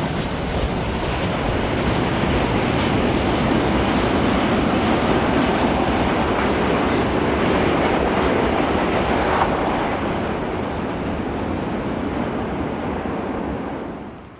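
Freight train wagons rolling past at speed, wheels clattering over the rail joints in a steady loud rumble that drops away sharply near the end.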